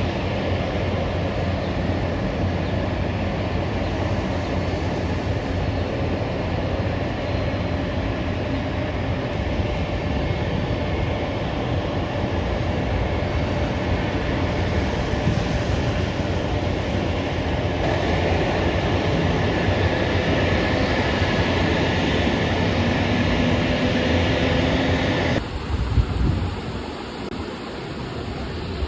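Steady low rumble and noise of a moving vehicle, changing abruptly near the end to a quieter background with a single thump.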